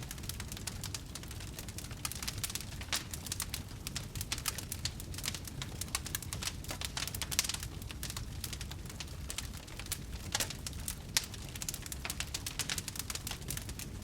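Wood fire burning in a fireplace, crackling with a dense, irregular run of small pops over a steady low rumble of the flames; a few sharper pops stand out about halfway through and again around ten and eleven seconds in.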